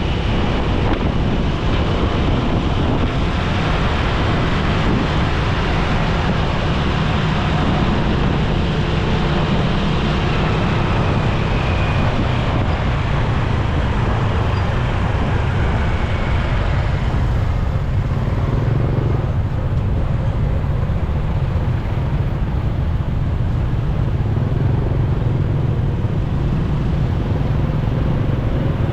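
Steady riding noise from a motorcycle in city traffic: the bike's engine running, with road and wind noise and the sound of surrounding vehicles. The upper hiss thins out about two-thirds of the way through.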